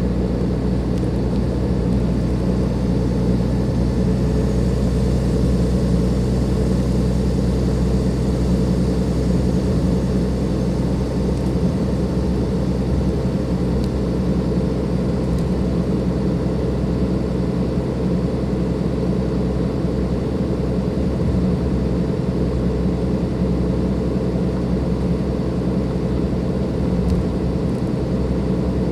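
Cummins ISLe340b diesel engine of a Dennis Enviro 500 double-decker bus running steadily, its low engine tones holding an even pitch throughout.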